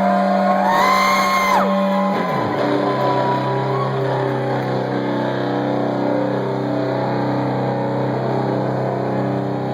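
Stoner metal band playing live, led by electric guitar. A high note bends up and slides sharply down in the first two seconds, with a low note diving at about two seconds, then the band holds a steady chord over a low drone.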